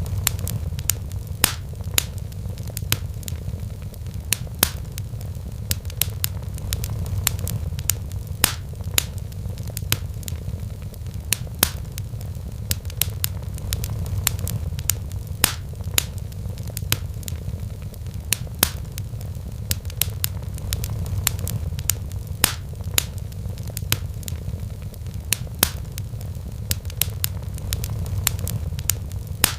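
Wood fire in a fireplace crackling, with sharp irregular pops and snaps a few times a second over a steady low rumble.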